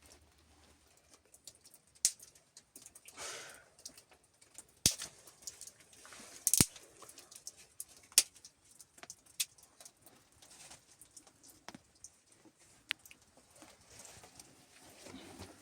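Scattered sharp clicks and knocks of small objects being handled, with a short rustle about three seconds in.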